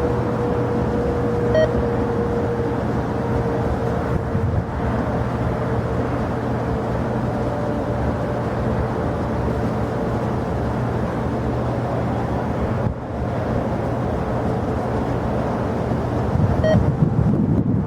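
Jet airliner engines running steadily, a rumble with a faint whine that slowly falls in pitch. Two brief beeps, one about a second and a half in and one near the end.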